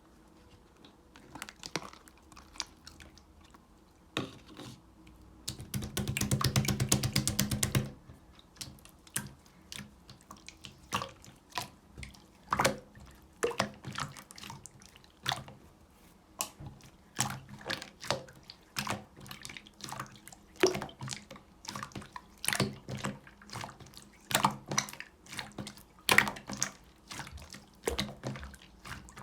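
Yellow clear slime being played with by hand, giving wet clicks and pops one after another. A louder run of rapid clicks comes from about six to eight seconds in.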